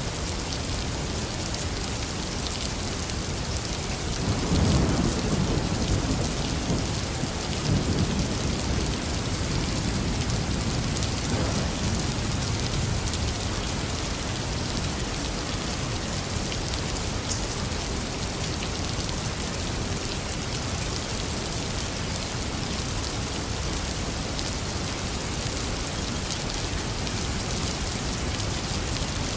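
Heavy rain falling steadily. About four seconds in, a roll of thunder rumbles low and grows louder, then dies away over the next several seconds.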